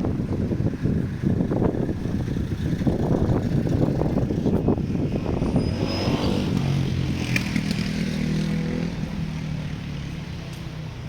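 Strong wind buffeting the microphone, then from about six seconds in a passing motor vehicle's engine hum that fades away near the end.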